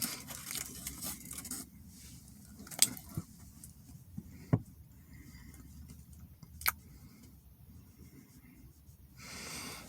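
Faint handling noises: soft rustling with three or four separate sharp clicks or taps, the loudest about halfway through.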